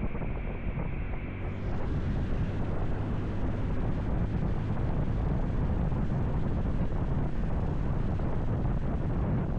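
Wind rushing over the microphone of a camera on a moving motorcycle, with a low road-and-engine rumble underneath. It grows brighter and a little louder about a second and a half in.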